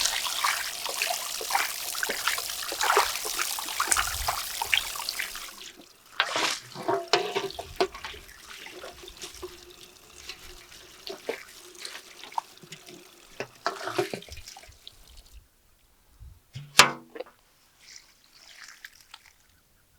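Water running, with small clinks through it, stopping abruptly about five or six seconds in; after that, scattered light clinks and knocks, with one louder sharp sound near the end.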